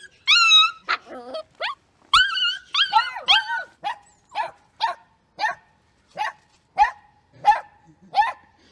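Dog barking: a few high, wavering yelps and whines at first, then a steady run of about eight short barks, roughly three every two seconds.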